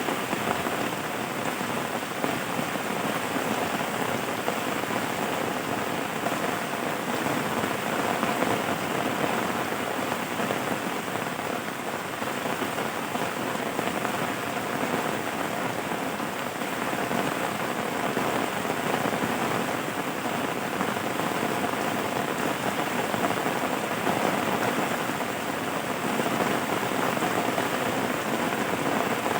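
Steady rain falling on a surface, an even hiss of drops that keeps the same level throughout.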